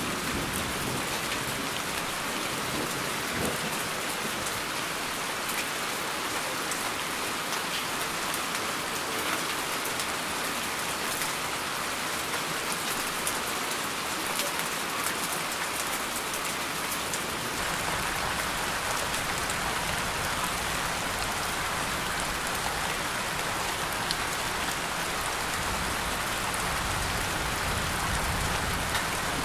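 Steady rain falling on leafy foliage: a dense, even hiss of drops with no pauses. A low rumble comes in a little past halfway.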